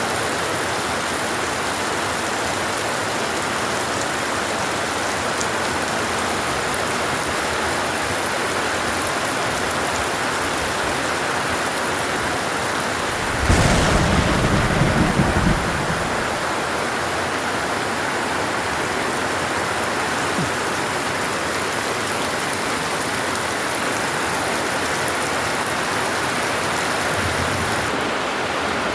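Heavy, steady downpour of rain, with one loud rumble of thunder about halfway through that lasts a couple of seconds.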